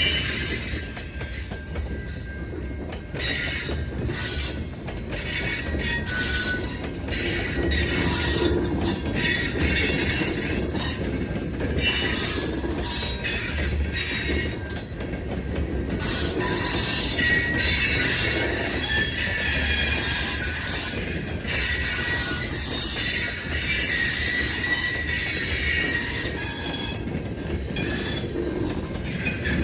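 A train rolling past: steel wheels squealing against the rails, with frequent clicks and clatter from the cars over a steady low rumble. The squeal rises in the middle of the passage.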